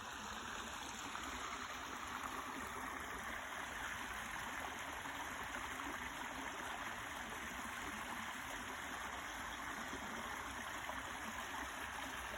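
Spring water flowing steadily in a small stream: an even, continuous rush that swells a little over the first second or so.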